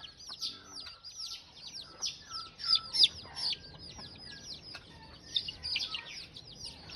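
Chickens chirping continuously in a rapid stream of short, high, falling calls, loudest about three seconds in.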